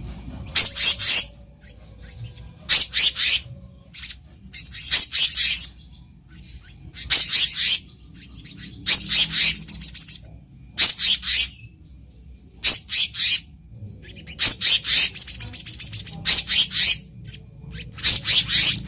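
Black-naped monarch (kehicap ranting) calling: short, loud phrases of quick repeated high notes, about ten phrases at intervals of a second or two.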